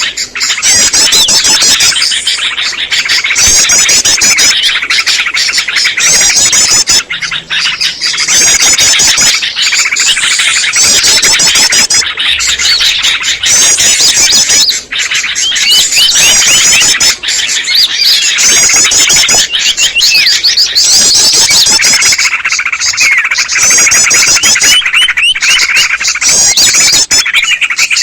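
Bird-lure recording of a loud, dense chorus of small songbirds: chattering yellow-vented bulbuls (trucukan) layered with many other small birds' chirps and short high trills that repeat over and over without a break.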